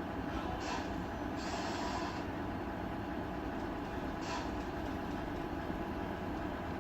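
Radio-controlled model truck running: a steady mechanical rumble, with three short hisses.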